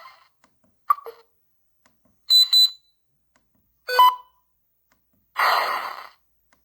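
Preset sound effects from the mBot2 robot's built-in audio library, played one after another through its small speaker with short silences between. First comes a brief chirp, then a high beep, a short pitched tone, and near the end a longer, hissy sound that fades out.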